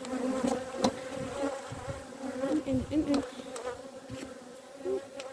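Honeybees buzzing around the hive, a steady hum whose pitch rises and falls as individual bees fly close past. A couple of sharp clicks sound through it, about a second in and again about three seconds in.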